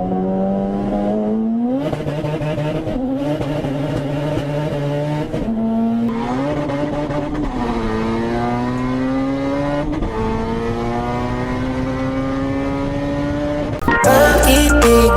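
A car engine at high revs, its pitch climbing and then dropping back several times, like an engine pulling through gear changes.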